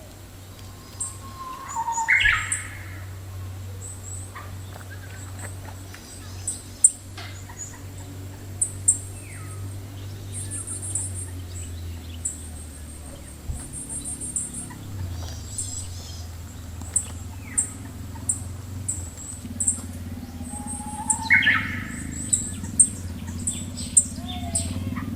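Birds calling outdoors: many short, high chirps and trills throughout, with two louder calls, one about two seconds in and one near the end. A steady low hum runs underneath.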